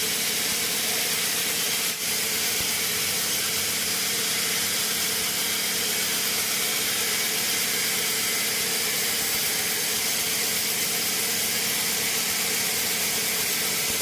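Sawmill machinery running steadily: an even hiss with a low hum underneath, dipping briefly about two seconds in.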